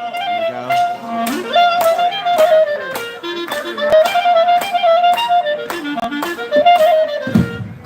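Solo clarinet playing a free lead-in to a polka, with held notes, quick ornaments and slides up and down, and sharp taps sounding along with it.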